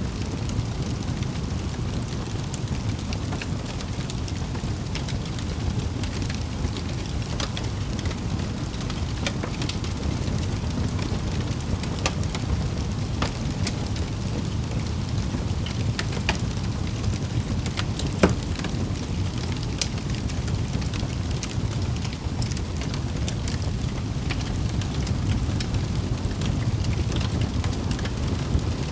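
Wood fire burning in a fireplace: a steady low rumble with scattered crackles and pops, and one louder pop a little past the middle.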